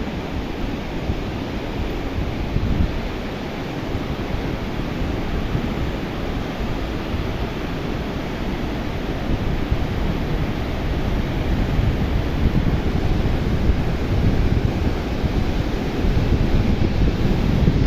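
Steady rushing noise of fast flood water, with wind buffeting the microphone; it grows a little louder near the end.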